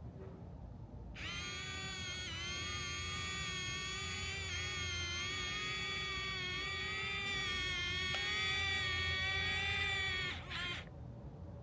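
Small electric motor and gearbox of a toy excavator whining steadily. It starts about a second in, wavers slightly in pitch, and cuts off near the end.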